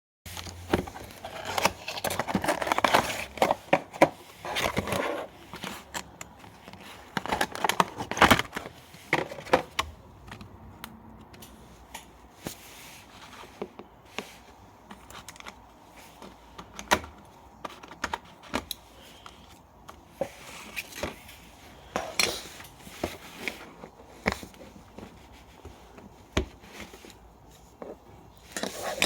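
Hands unboxing a small scale airliner model: packaging rustling and scraping, dense for the first few seconds, then scattered sharp clicks and taps, with a louder burst of handling near the end.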